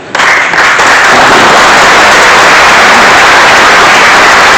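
Audience applauding: loud, dense clapping that breaks out suddenly and holds steady.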